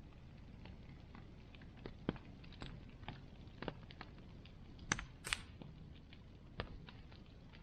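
Bonfire crackling: irregular snaps and pops of burning wood over a low steady rumble of the flames, with two louder pops about five seconds in.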